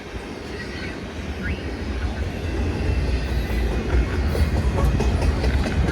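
Train passing on the rails: a low rumble that grows louder over the first few seconds, with clicking of wheels over the track in the second half.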